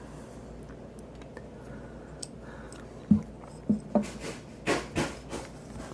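Small metal parts of a Spyderco Paramilitary 2 folding knife being handled during reassembly, as the stop pin goes back in: a light click about three seconds in, then a cluster of small taps and brief scrapes.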